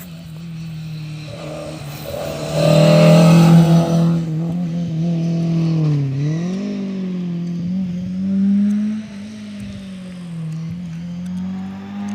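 Rally car engine at high revs going by. It is loudest about two to four seconds in, with a rush of noise over the engine note. About six seconds in the note dips sharply and then climbs again, rising and falling as the car drives on.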